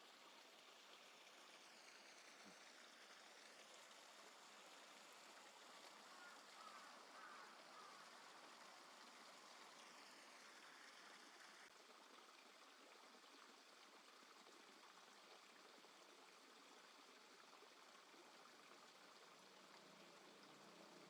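Faint, steady rush of flowing water from a small river.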